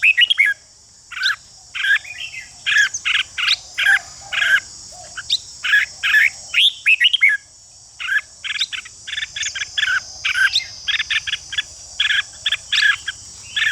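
Red-whiskered bulbul singing in quick bursts of short chirping notes with brief pauses, over a steady high-pitched buzz.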